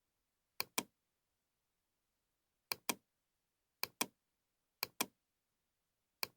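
Computer mouse double-clicking: about five quick double clicks, spaced unevenly over a few seconds, with dead silence between them.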